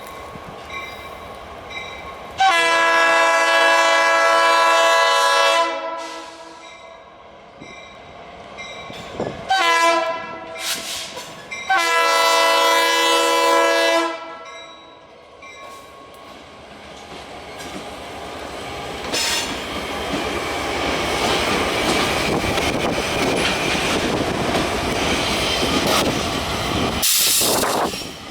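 Freight-train diesel locomotive air horn blowing for a road crossing: a long blast, two short blasts and another long blast. Then the rumble of the locomotives and freight cars grows louder as the train draws near and passes, with wheels squealing briefly near the end.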